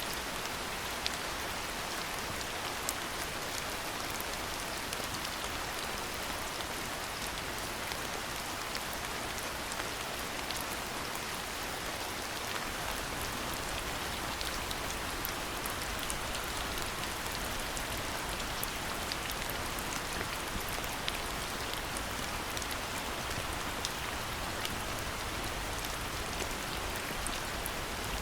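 Steady rain falling: a constant hiss with scattered sharp ticks of individual drops.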